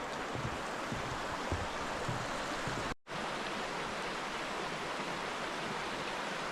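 Steady rush of a fast-flowing stream over rocks. A few soft low thumps come in the first two seconds, and the sound drops out for an instant about three seconds in before carrying on.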